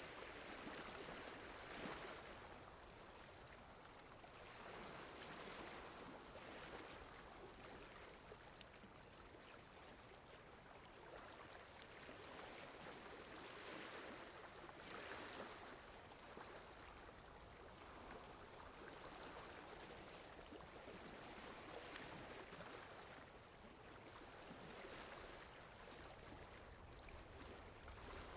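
Steady rain falling: a soft, even hiss that swells and eases gently every few seconds.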